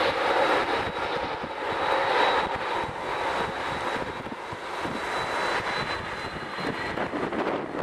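Jet airliner's engines roaring, with a steady high whine over the rush, slowly fading. Gusts of strong wind buffet the microphone underneath.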